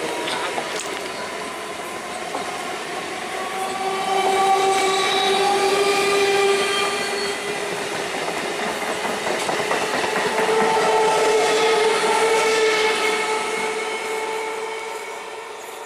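Electric multiple-unit local train passing at speed, wheels clattering over the rail joints. Two long horn blasts sound, the second one higher-pitched, as another EMU approaches on the next track.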